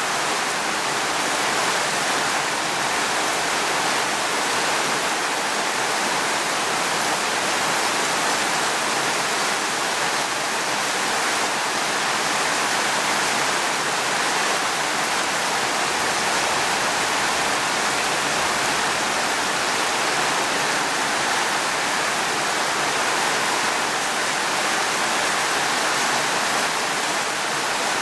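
Steady heavy rain: a dense, even hiss with no single drops or thunder standing out.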